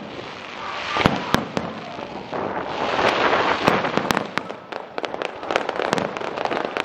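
Aerial firework shells bursting: a few sharp booms about a second in, then a dense stretch of crackling and rapid reports in the middle, with scattered bangs continuing after.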